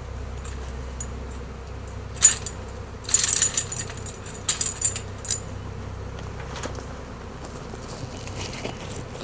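Honey bee swarm buzzing as a low steady hum, with a few sharp clicking rattles about two to five seconds in.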